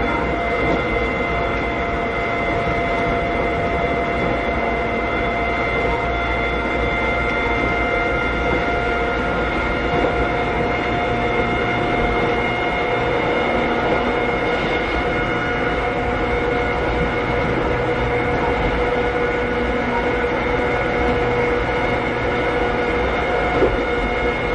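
Interior running sound of a Keikyu old 600 series car (No. 605), heard from behind the cab while cruising at steady speed. A steady whine of several tones at constant pitch comes from its Toyo Denki traction equipment, over wheel rumble, with a few light knocks from rail joints and a sharper one near the end.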